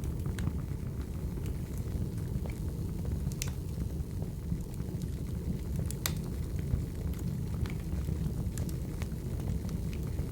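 Crackling wood fire: a steady low rumble of burning logs with scattered sharp pops and crackles.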